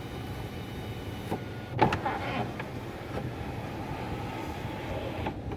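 Electric sunroof motor of a 2017 Nissan Maxima running steadily as the glass panel slides, with a faint whine, a click and then a sharper knock about two seconds in.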